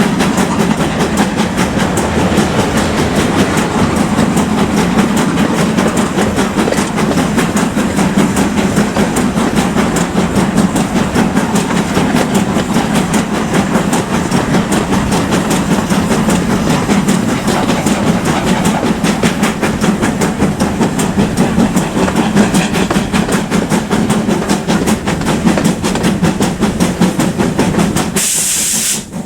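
Steam train running: the locomotive working and the carriages rolling over the rails in a steady, loud clatter. A short sharp burst of steam hiss comes just before the end.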